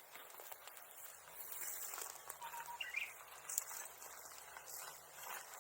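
Quiet outdoor ambience with a few faint, sharp crackles from a bonfire, and a brief chirp about three seconds in.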